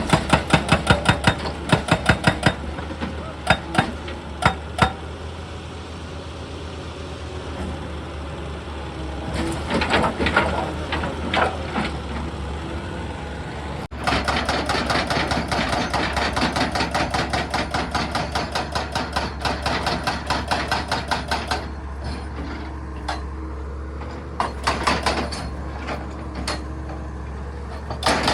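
Excavator-mounted hydraulic rock breaker hammering stone in rapid blows, many a second, in runs of a few seconds with short pauses between, over the steady low hum of the excavator's diesel engine.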